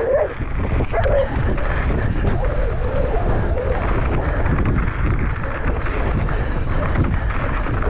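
Heavy wind buffeting on the microphone, a steady low rumble, with a few faint short whining calls over it.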